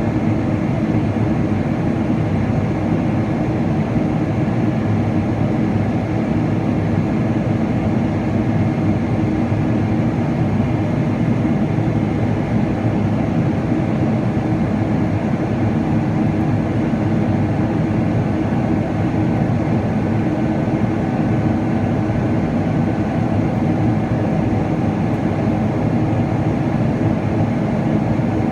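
Steady cabin noise of a Boeing 777-300ER airliner under power, the hum of its GE90 engines and the rush of air heard from inside the passenger cabin.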